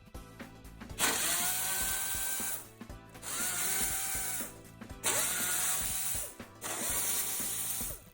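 Hand-held power tool, such as a powered ratchet or driver, run in four bursts of about a second and a half, each with a whine that rises as it spins up, over background music.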